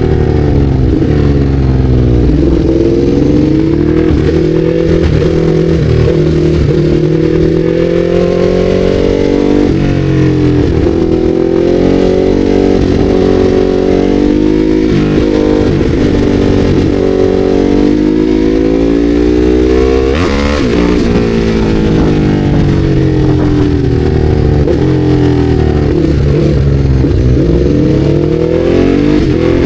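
Ducati Hypermotard 821's L-twin engine under way, heard from the rider's seat. The revs climb and fall again and again as the bike accelerates and slows.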